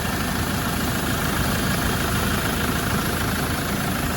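2007 Land Rover Defender 90's 2.4 TDCi four-cylinder turbodiesel idling steadily at full operating temperature, with no funny noises, nothing that shouldn't be there.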